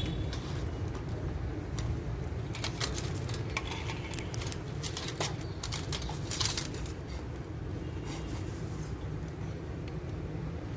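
Alexandrine parakeets chewing and gnawing wood: an irregular run of sharp clicks and crackles, busiest in the middle, over a steady low rumble.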